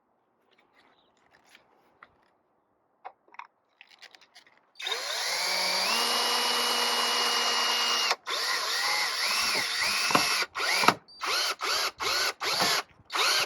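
Power drill driving screws into wood to fix a hinge in place. The motor comes on about five seconds in, rises to a steady whine for about three seconds, then runs in a string of short bursts.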